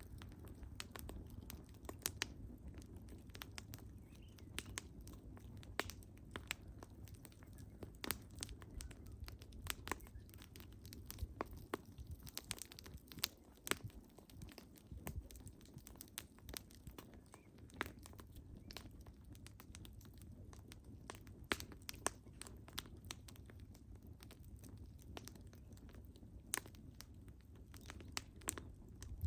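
Wood fire crackling: irregular sharp pops and snaps, several a second at times, over a low steady rumble of burning.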